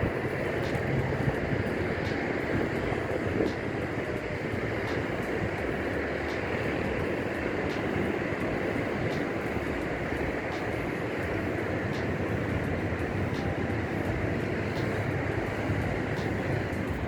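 Steady rush of highway traffic with no single vehicle standing out.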